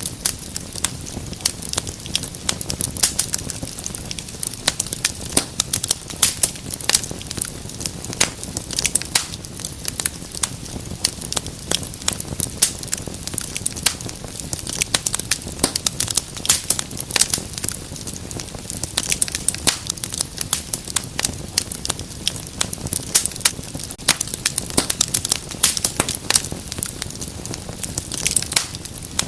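Wood fire burning in a fireplace, crackling and popping continuously with many small sharp snaps at irregular intervals over a low steady rush of flame.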